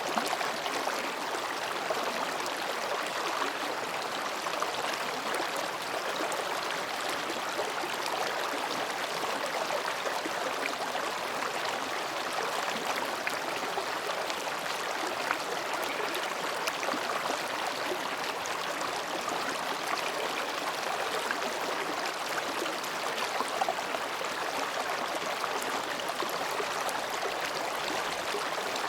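Mountain stream babbling over and between rocks: a steady, even rush of water with small splashes and gurgles.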